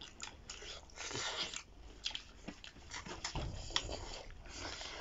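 Close-miked mouth sounds of people eating spicy duck meat with their fingers: chewing, wet lip-smacking and finger-sucking, with short clicks and a few longer hissing slurps or breaths.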